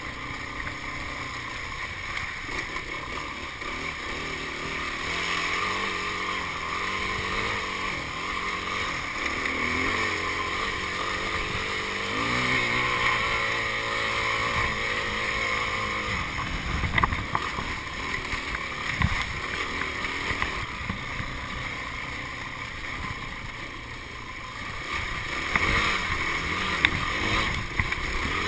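Yamaha enduro motorcycle engine revving up and down as the rider works the throttle and gears, with wind on the microphone. Sharp knocks and thumps come about two-thirds of the way through and again near the end, as the bike goes down onto its side.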